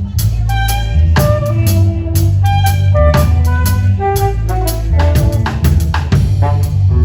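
Live band music: a saxophone plays a solo line of short melodic notes over a steady drum-kit beat and a heavy bass line.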